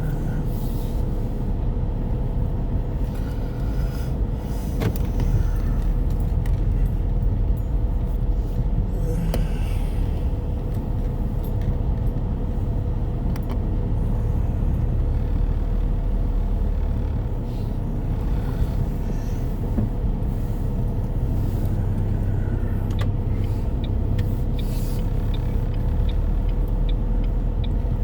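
Car being driven, heard from inside the cabin: a steady low engine and road rumble. A light, regular ticking comes in near the end.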